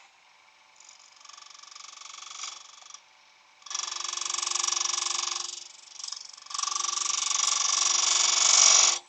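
Wood lathe with a turning tool cutting into a spalted beech lid blank, three cuts with short pauses between them. The third cut is the longest and loudest, and a steady motor hum runs under the two longer cuts.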